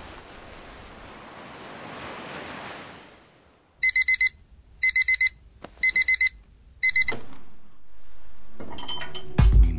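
Digital alarm clock beeping: four bursts of four quick, high beeps about a second apart, stopping after the fourth burst. Before it, a soft rushing of wind and waves.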